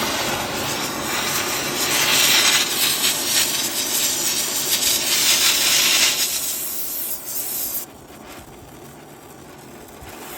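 Oxy-acetylene torch flame hissing and rushing as it is adjusted. It is loudest between about two and six seconds in, then drops off sharply about eight seconds in.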